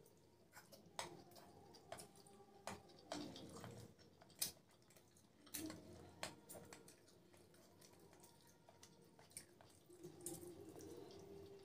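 Quiet, close-miked eating sounds of soft macaroni pasta: wet chewing and smacking, with scattered sharp clicks, the loudest about four seconds in.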